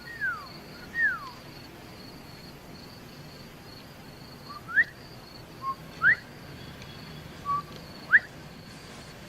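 Whistled bird-call signals: two falling whistles, then three answering calls, each a short low note followed by a quick rising whistle. A faint, steady, high insect-like chirring runs underneath.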